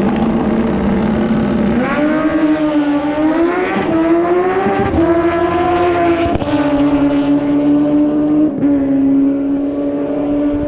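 Car engine at full throttle on a drag-strip run. Its revs climb and drop back sharply several times as it shifts through the gears, then hold steady.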